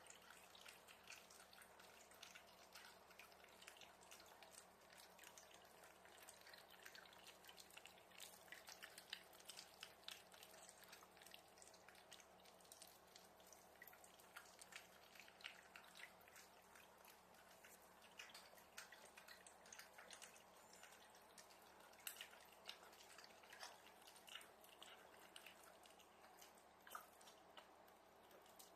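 Faint, irregular soft clicks and ticks over quiet room tone.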